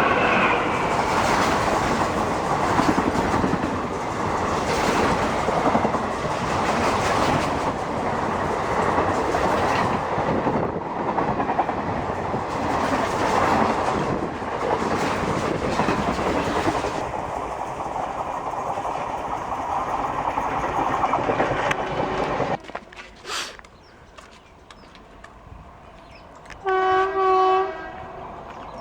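An Indian Railways express train running through the station at speed: a loud rush of wheels on rail with regular clickety-clack over the joints, which cuts off suddenly about three-quarters of the way through as the last coach clears. Near the end comes a single horn blast of about a second.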